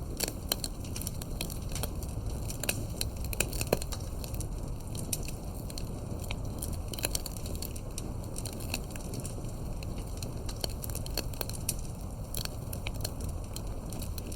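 Campfire burning: a steady low rumble of flames under frequent, irregular crackles and sharp pops from the burning wood, one louder pop about four seconds in.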